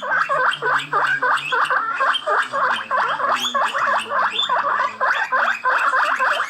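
An animal's fast, harsh chattering calls, about four a second, repeated in an unbroken run.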